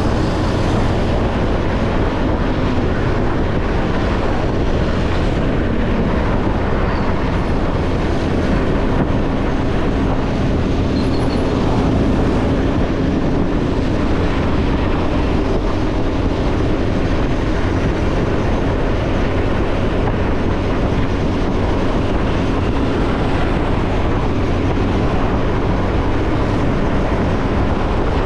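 Ordinary motorcycle being ridden along a road: steady engine hum under a constant rush of road noise.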